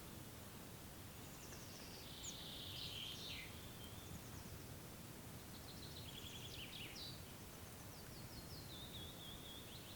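Songbirds singing short, high trilling phrases, one after another, with one phrase near the end falling in steps, over a faint steady background hiss.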